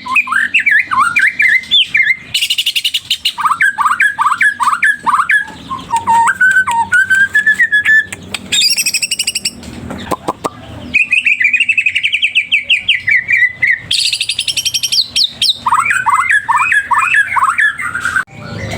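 White-rumped shama (murai batu) singing loud, continuous song in varied phrases: runs of quick rising whistled notes, rapid high trills and fast chattering bursts. This is 'gacor' full song, the challenge a shama gives when it is seeking a rival.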